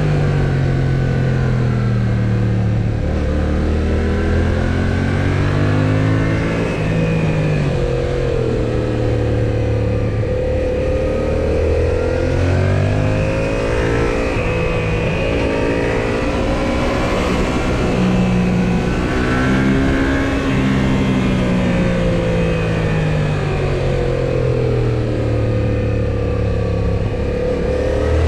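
Yamaha XSR700's 689 cc parallel-twin engine heard from on the bike while riding: the engine note repeatedly rises and falls as the rider accelerates, shifts and rolls off, over steady wind and road noise.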